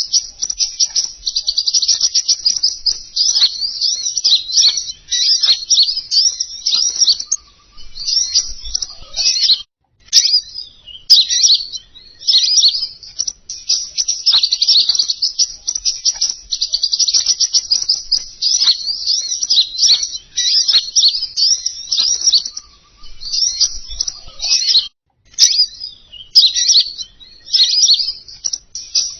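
Songbird lure recording: a rapid, high, twittering song in long unbroken strings of chirps, pausing only briefly a few times.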